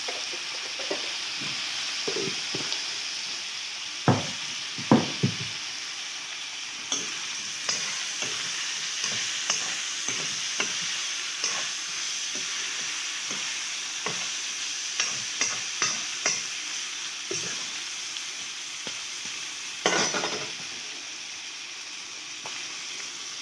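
Pork frying in a metal wok: a steady sizzle, with a spatula scraping and knocking against the pan as the pieces are stirred. Louder knocks come about four and five seconds in, and a longer loud scrape near the end.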